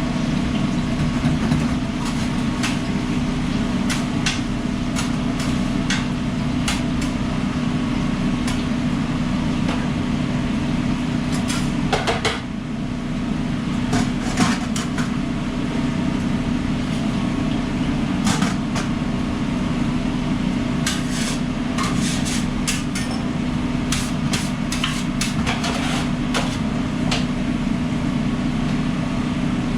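Food truck kitchen during service: a steady low machine hum from the truck's equipment, with scattered clicks and knocks of utensils and cookware, busiest in the middle and latter part.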